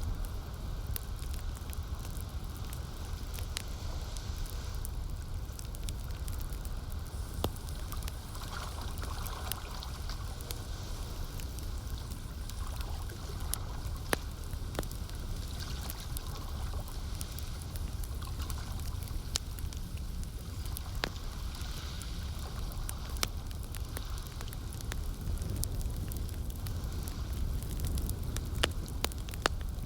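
Campfire crackling with frequent sharp pops and snaps over a steady low rumble of burning, with gently lapping lake water.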